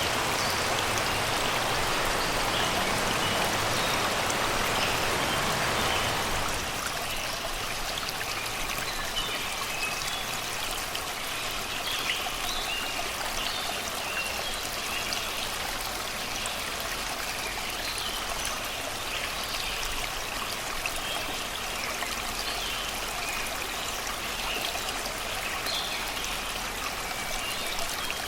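Shallow river water rushing and babbling over rocks and stones, a steady stream sound. It is fuller and louder for the first six seconds, then drops to a softer, steady flow.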